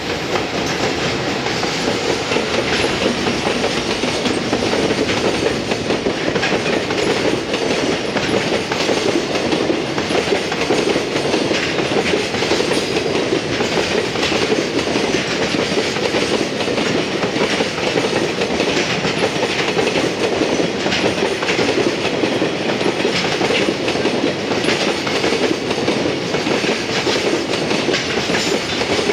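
Freight train hauled by an EF210 electric locomotive running past, its wheels clattering steadily over the rail joints. The sound comes up sharply at the start and then holds loud and even.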